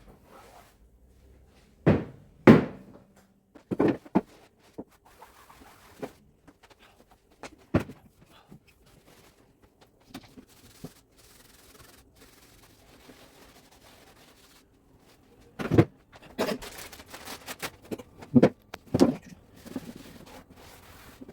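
Household cleaning sounds: a scatter of sharp knocks and clunks of things being handled and set down, with faint rubbing and wiping between them, and a busier run of knocks near the end.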